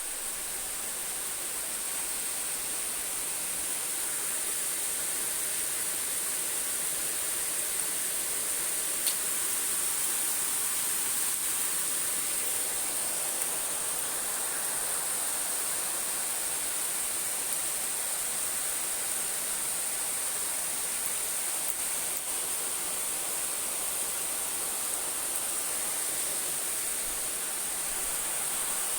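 Steady rain falling, an even hiss that holds at one level throughout, with one faint click about nine seconds in.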